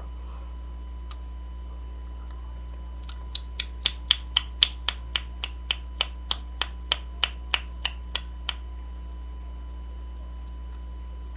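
Fingers snapping in a steady beat, about nineteen snaps at three or four a second, starting a few seconds in and stopping about three-quarters of the way through. A steady low electrical hum runs underneath.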